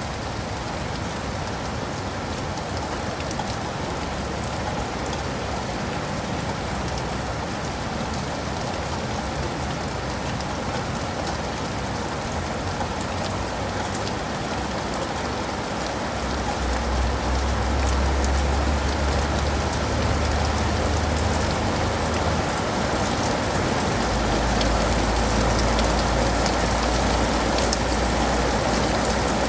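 Steady rain falling on leaves and pavement. About halfway through a low rumble comes in under it and the sound grows a little louder.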